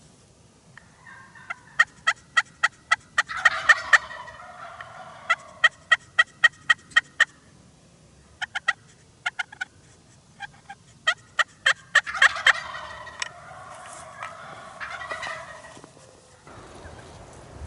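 Wild turkeys calling: two long runs of quick, sharp yelping notes, each swelling into a rattling gobble, with a few scattered notes between the runs.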